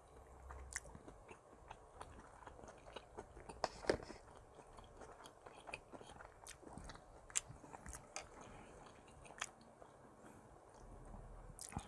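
Faint close-up chewing of tuna kimchi stew, with a few sharp clicks of wooden chopsticks against the stainless pot.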